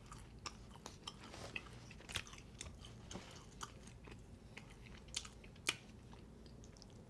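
A person chewing a mouthful of pizza close to the microphone, with irregular sharp mouth clicks.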